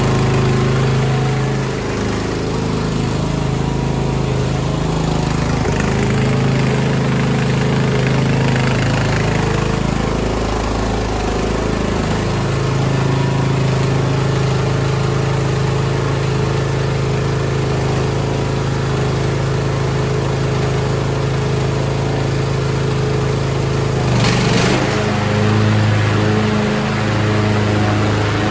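Craftsman YTS3000 lawn tractor's 21 hp twin-cylinder Briggs & Stratton engine running steadily, its engine speed shifting a few times. A brief burst of noise comes about 24 seconds in, after which the engine settles at a lower pitch.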